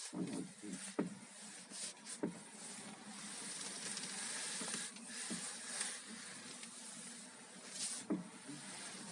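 Fenox manual steering rack on a Daewoo Nexia creaking as the steering is turned: a few sharp clicks, then a long rasping creak in the middle. The creak is the fault being shown.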